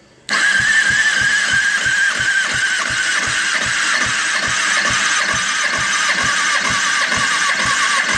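The electric starter of a 2009 Kawasaki ZX-6R inline-four cranking the engine for a compression test on cylinder 4. A steady, slightly wavering whine with about four even pulses a second, starting abruptly just after it begins and cutting off at the end.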